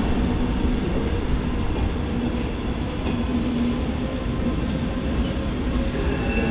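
Train running through the station: a steady rumble of wheels and running gear with a few faint steady tones over it.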